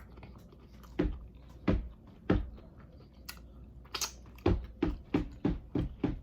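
Close-miked chewing of a mouthful of food. A few separate chews come about a second apart, then a quicker run of chews at roughly three a second near the end.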